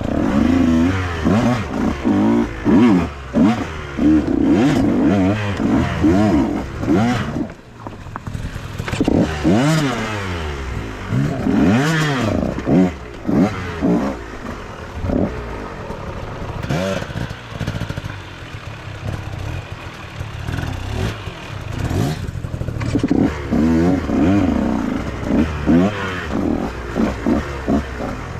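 Dirt bike engine revving up and down in quick throttle blips, pitch rising and falling over and over, with knocks and clatter from the bike over rough ground.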